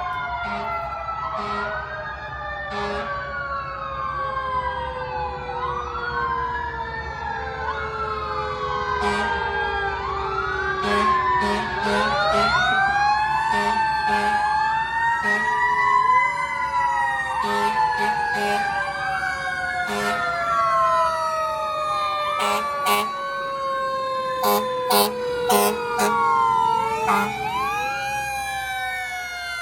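Several fire truck sirens wailing at once, their rising and falling tones overlapping, over the low rumble of truck engines. Short horn blasts sound again and again, several in quick succession near the end.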